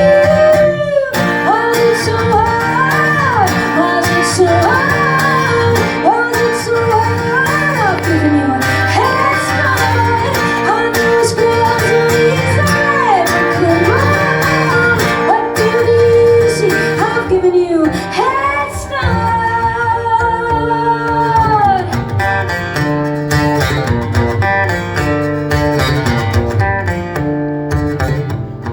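A live song performance: a woman singing a sliding, ornamented melody over guitar and band accompaniment, holding one long note about two-thirds of the way through, with the music winding down near the end.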